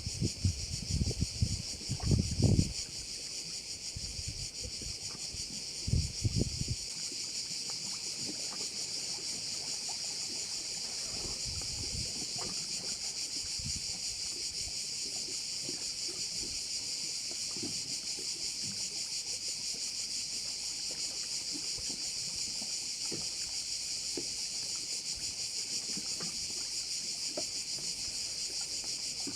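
Steady, high-pitched chorus of crickets chirring without a break. In the first seven seconds several loud low rumbles and thumps sound over it, then only faint low crackles remain.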